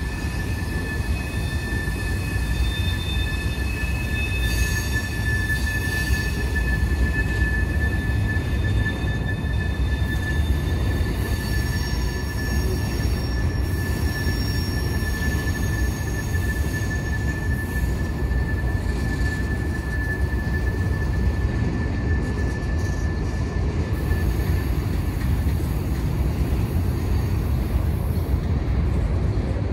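Freight cars, centerbeam lumber flatcars, rolling steadily past on steel wheels: a continuous low rumble of wheels on rail, with a high, steady wheel squeal ringing over it that fades out about 24 seconds in.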